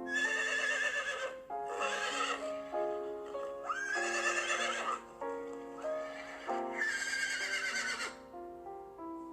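Horse whinnying four times, each a wavering high call of about a second, over background music.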